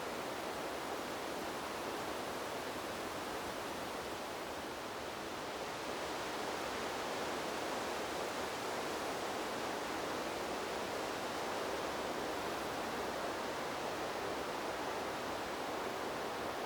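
Wind blowing through trees, a steady rushing hiss that eases slightly around four seconds in and swells again a couple of seconds later.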